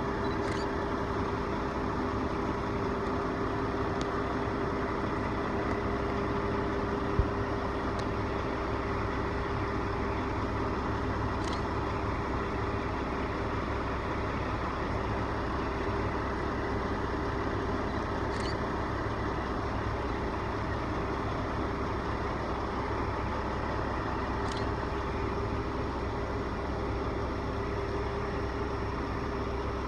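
A large engine running steadily at an even idle-like pace, a constant drone with a held hum. There is a single sharp click about seven seconds in.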